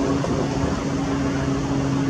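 Steady low mechanical hum over a noisy background, with two constant low tones.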